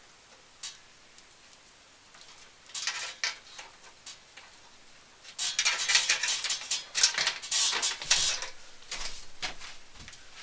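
Cables and a twist tie being handled inside a PC case: scattered small clicks and taps, then a dense stretch of rustling and scraping a little past the middle.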